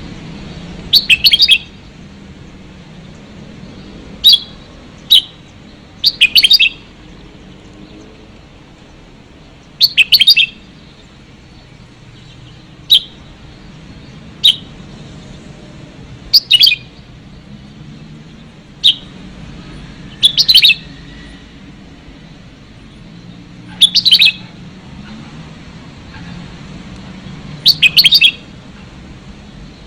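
Red-whiskered bulbuls singing the 'xịu đinh' call in short, loud, clear phrases every one to four seconds, over a faint low hum.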